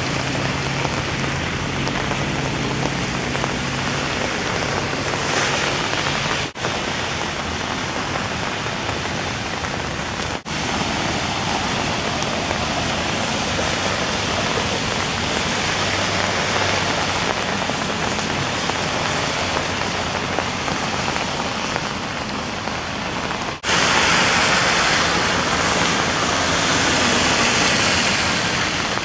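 Steady rain falling, an even hiss of drops. It drops out briefly three times and is louder over the last five seconds, and a low steady hum lies under it for the first several seconds.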